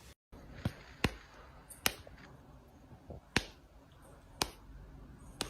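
A series of about six sharp clicks or taps at uneven intervals.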